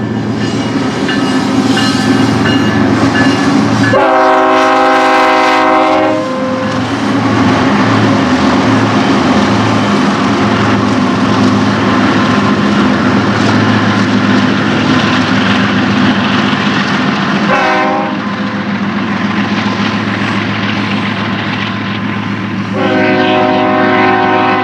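Diesel locomotive air horn on a passing BNSF double-stack container train, sounding over the steady rumble of engines and rolling cars: one long blast about four seconds in, a short toot near eighteen seconds, and another long blast near the end.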